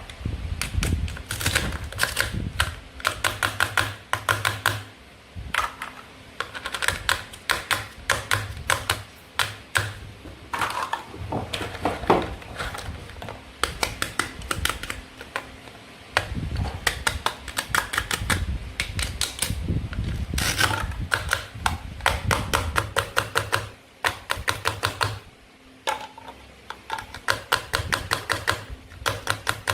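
Toy play food being cut and handled: runs of quick, sharp plastic clicks and taps, with low thuds underneath.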